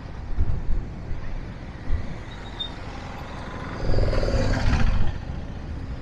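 Vehicle traffic on a busy road, with a steady low rumble of engines and a louder vehicle passing close about four seconds in.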